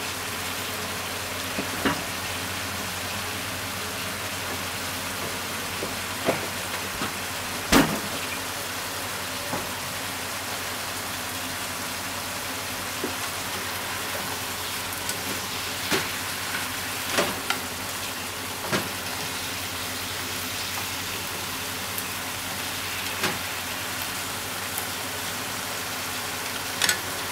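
Pork belly, shimeji mushrooms and onion sizzling steadily in a frying pan, with scattered sharp clicks and pops throughout.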